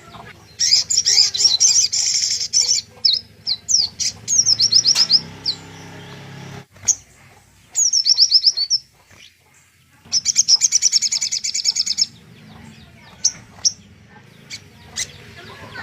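Small songbird singing in bursts of fast, high-pitched trilled chirps, each burst one to two seconds long. Short single notes sweep downward between the bursts.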